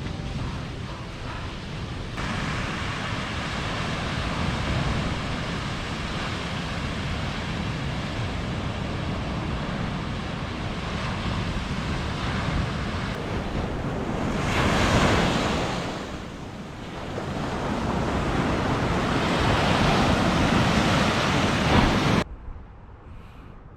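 Sea waves breaking and washing on the shore, with wind on the microphone; the surf swells louder about fifteen seconds in and again near the end, then cuts off suddenly.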